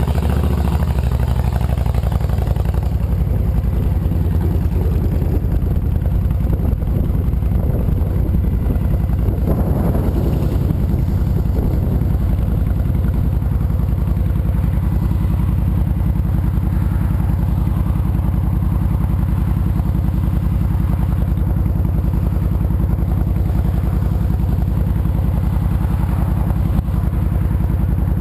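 2007 Honda VTX 1300C's V-twin engine running steadily with an even low exhaust pulse. A swell of rushing noise rises and fades about ten seconds in.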